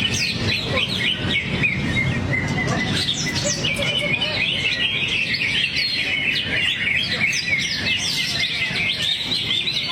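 Cucak hijau (greater green leafbird) singing a fast, unbroken stream of varied chirps and short whistles, running through its repertoire of song material.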